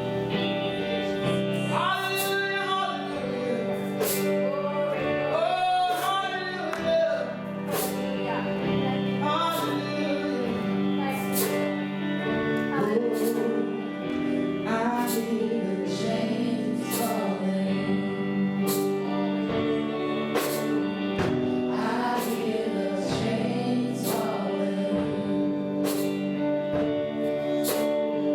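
Gospel worship song: voices singing a melody over sustained chords, with a steady beat of short drum or cymbal strikes about once a second.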